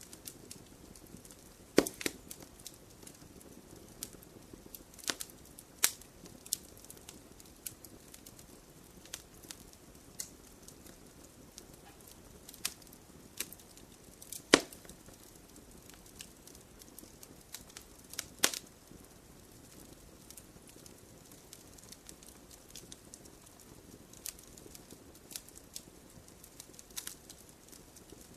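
Campfire crackling: irregular sharp pops and snaps over a low, steady rush of burning, with the loudest pop about halfway through.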